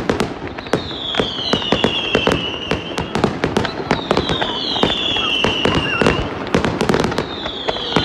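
Fireworks display: a rapid run of sharp bangs and crackles from bursting shells, with a falling whistle rising over them about every three seconds.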